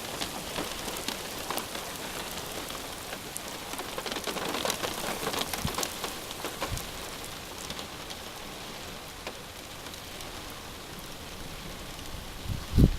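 Thunderstorm rain falling with a steady patter of drops. It is heaviest about four to six seconds in, then eases off. A brief louder sound comes near the end.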